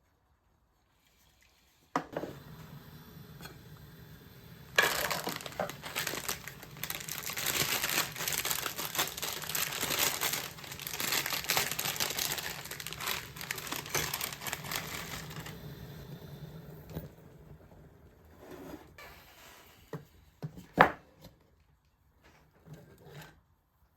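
Dense crinkling and rustling, like paper or dry material being handled, over a steady low hum. It starts suddenly about two seconds in, is loudest in the middle, and thins out near the end into a few separate knocks.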